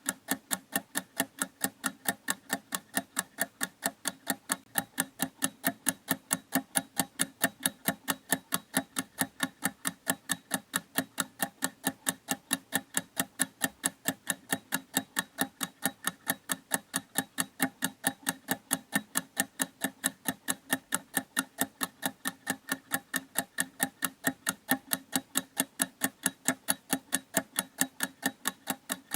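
Clock mechanism ticking in a fast, even rhythm of several sharp ticks a second, steady throughout.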